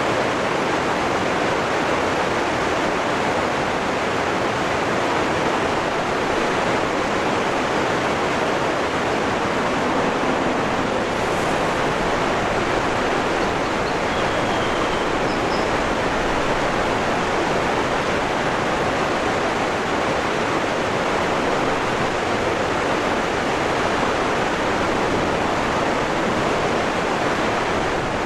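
Waterfall rushing: a steady, unchanging wash of falling water.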